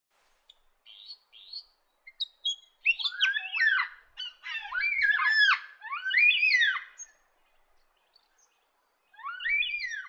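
A bird singing a rich, varied song of loud, swooping whistled notes, which breaks off about seven seconds in and picks up again with one more phrase near the end.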